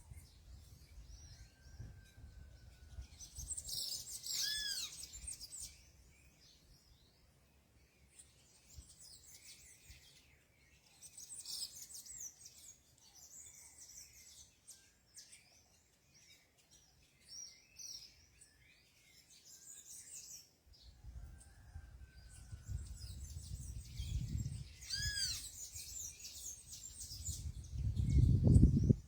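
Wild birds at a fruit feeder calling on and off: scattered high chirps, with clusters of short arched notes about four seconds in and again near the end. A low rumble builds in the last few seconds and is the loudest sound.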